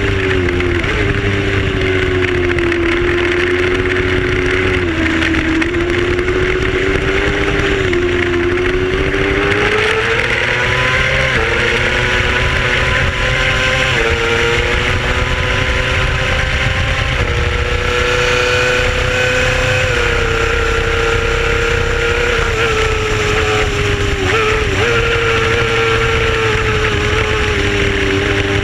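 Racing motorcycle engine heard from onboard, running at moderate, fairly steady revs that rise and dip gently, with a few small steps in pitch like gear changes. A steady rushing noise runs underneath.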